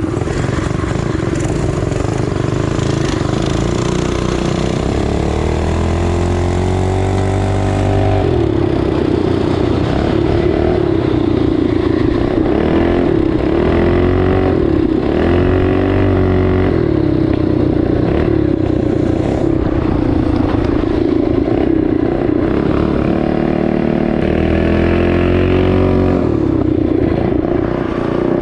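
Small single-cylinder four-stroke trail-bike engine running under way, its pitch climbing and dropping back several times as the throttle opens and closes.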